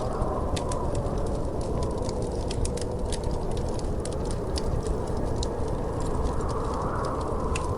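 Wood fire crackling, with many small irregular pops and snaps over a steady low rumble of burning.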